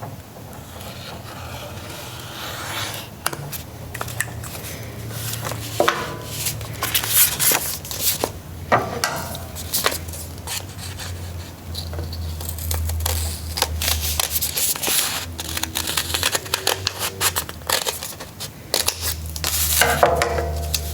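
Scissors snipping through folded paper in many short cuts, with the paper crinkling as it is handled, cutting out hearts.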